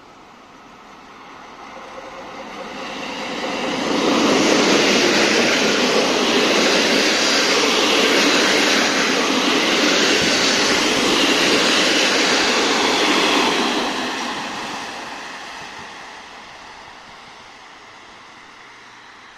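A diesel-hauled passenger train passes close by, its wheels rolling on the rails. The noise builds over about three seconds, stays loud and steady for about ten seconds, then fades away.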